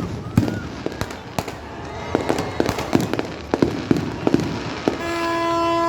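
Aerial fireworks going off in a rapid, irregular string of bangs and crackles, each with an echoing tail. A steady, horn-like pitched tone joins for about the last second.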